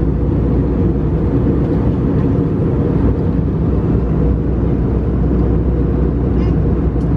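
Steady cabin rumble inside an Airbus A319-111 airliner: engine and airflow noise heard from a seat behind the wing, deep and even throughout.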